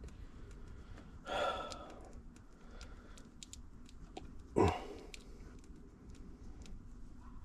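A man huffing out two short breaths of effort, the second sharper and louder, while reaching awkwardly into an outboard engine. Faint small clicks of tools on metal come in between.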